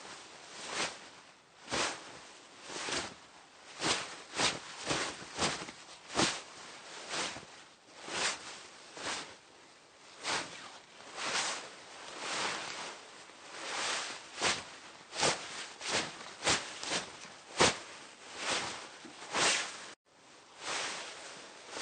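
Hanbok fabric rustling as the wearer moves: a long run of short, irregular swishes, one or two a second. About 20 s in the sound cuts out for an instant, where the recording loops and starts again.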